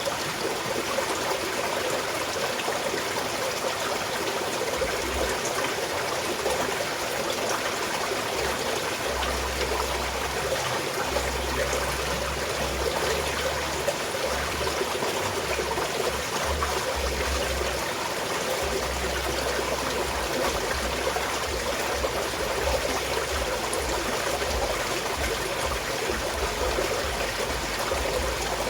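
Small mountain stream flowing steadily, trickling and burbling over rocks.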